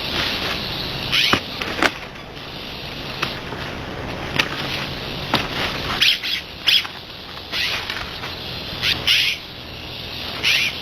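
Wild birds calling: short, bright, downward-sweeping chirps about once a second over a steady hiss, with a few sharp clicks.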